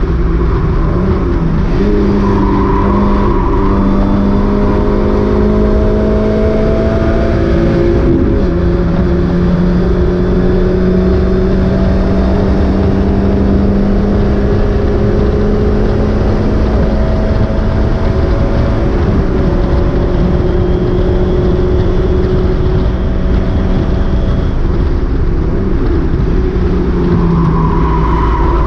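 Mazda MX-5 race car's four-cylinder engine running hard under load, its pitch climbing slowly and dropping sharply about eight and nineteen seconds in, over steady wind and road noise. The engine has a misfire.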